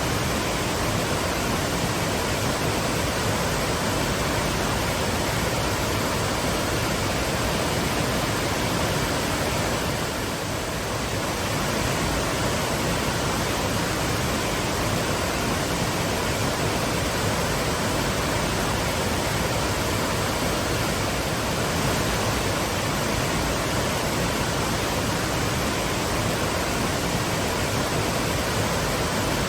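Twin waterfalls pouring: a steady, even rush of falling water.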